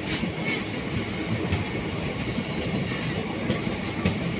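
Train running on the rails, heard from on board: a steady rumble with a few faint wheel clicks, while a freight wagon on the next track slides past close alongside.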